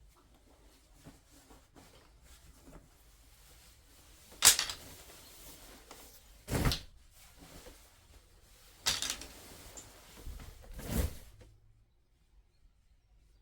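Four separate knocks or clatters about two seconds apart, with quieter handling noise between them: household things being put down or cupboards and drawers being worked.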